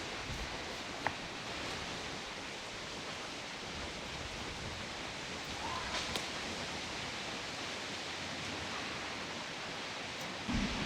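Steady wind blowing through forest trees with rustling leaves, a couple of faint clicks, and a louder low rumble coming in near the end.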